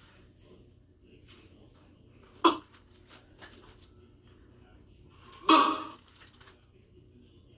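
A person's loud, short "Boo!" about five and a half seconds in, with a shorter, sharp sound about halfway through and faint low background between.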